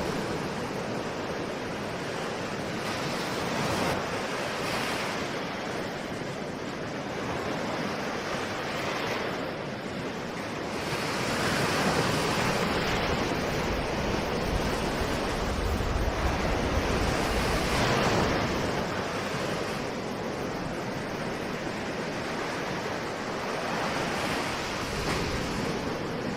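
Ocean surf: waves breaking and washing in a continuous rush that swells and ebbs every few seconds, loudest in the middle stretch, with some wind.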